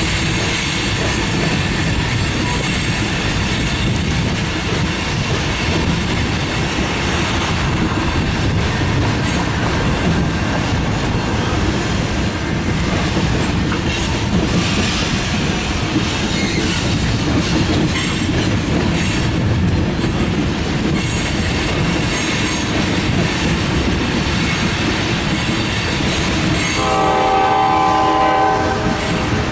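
Loaded grain freight cars rolling past, a steady rumble with the clatter of wheels over the rail joints. Near the end a train horn sounds for about two seconds, a chord of several steady tones.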